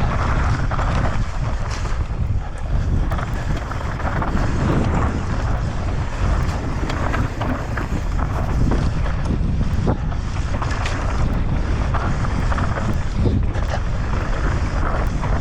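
Wind buffeting the microphone as a steady loud rumble, with many short clicks and rattles scattered through it.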